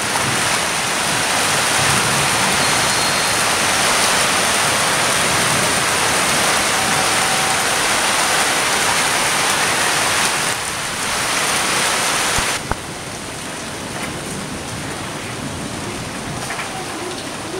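Rain falling as a dense, steady hiss. About two-thirds of the way in it drops abruptly to a lighter patter with scattered drips and one sharp click.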